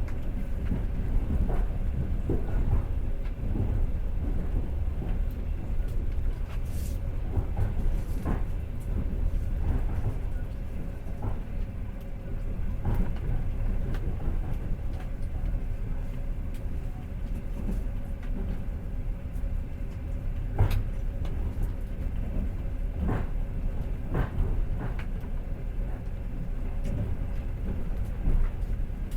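Passenger train running, heard from inside the carriage: a steady low rumble of wheels on the rails, with scattered clacks and knocks at uneven intervals.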